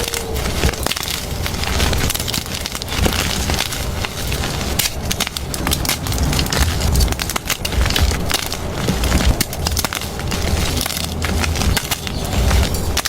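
Blocks of gym chalk being crushed and crumbled by hand: a continuous, dense crunching and crackling.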